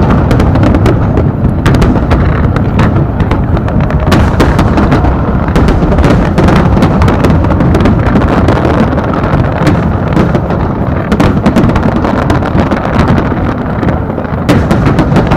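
Large aerial fireworks display: a loud, dense barrage of shell bursts, many bangs a second over a constant low rumble.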